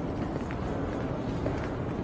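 Steady background hubbub of a busy airport terminal, with a few faint clicks.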